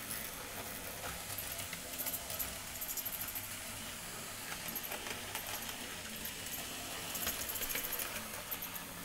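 Model railway train running on the track: quick runs of light metallic clicking and rattling over a steady low hiss.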